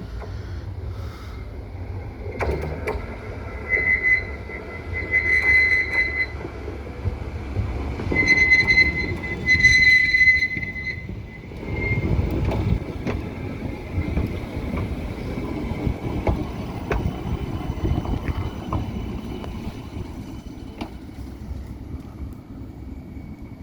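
A tram running along street track, its steel wheels squealing on the rails in several high, steady bursts, then a louder rumble of wheels on rail that fades away.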